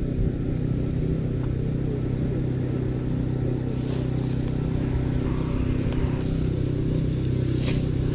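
A steady low mechanical hum with an even pitch, like an engine running, holding level throughout.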